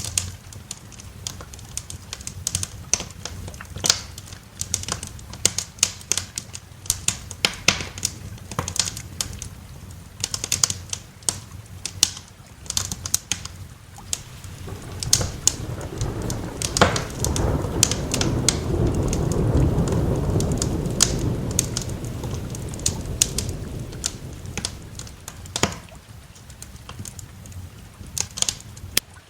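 Wood fire crackling in a fireplace, with sharp pops throughout, over light rain. About halfway through, a long roll of thunder swells up, peaks and fades away over several seconds.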